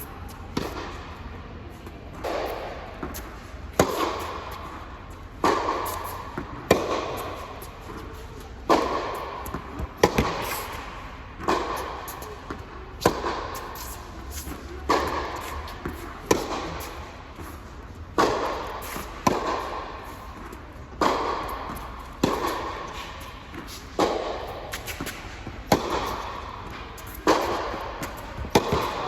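Tennis rally: a ball struck hard by racquets, one a Tecnifibre T-Fight 305, and bouncing on a hard court. The sharp hits come in a steady back-and-forth rhythm, about one every second or so, each ringing briefly.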